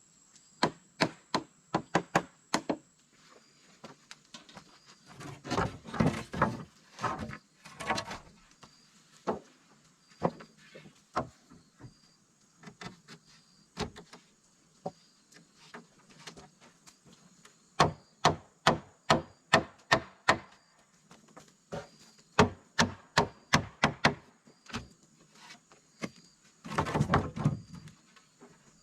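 A tool striking wood in quick runs of sharp knocks, about three to four a second, with a few longer scraping or rustling bursts in between.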